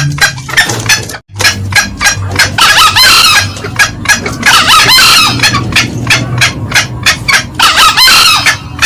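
Green junglefowl calls from a loud lure recording: a fast string of short, sharp clucking notes, about four or five a second. Three longer, louder calls break in about two seconds apart. The sound drops out briefly about a second in.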